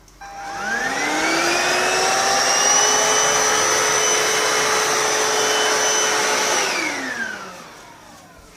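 Vax Cordless SlimVac stick vacuum switched on: the motor whines up in pitch to a steady suction roar, runs for about five seconds, then is switched off and winds down with a falling whine.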